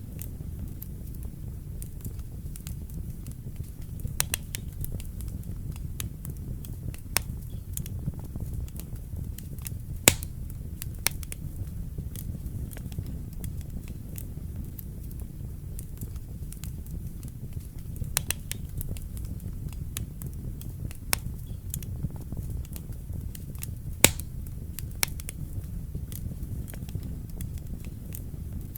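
Wood fire burning in a fireplace: a steady low rumble of the flames with irregular sharp crackles and pops, two louder pops standing out.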